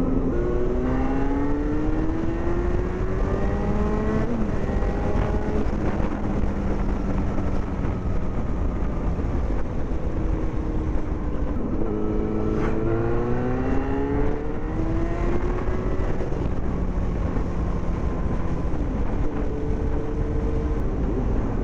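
Yamaha FZ6 Fazer's 600 cc inline-four running through a loud homemade exhaust while riding. The engine pulls up through the gears twice, its pitch rising and then dropping back at each shift, with steadier cruising in between, over a constant rumble of wind and road.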